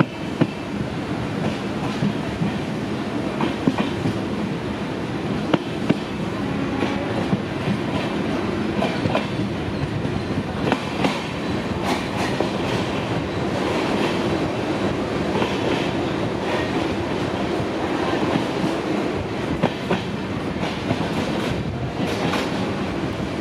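Train running on the track: a steady rumble with wheels clicking over rail joints again and again.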